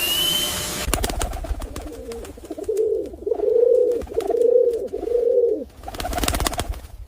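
A bird calling: four low, drawn-out notes in a row, each ending in a falling slide, with crackling noise before and after them.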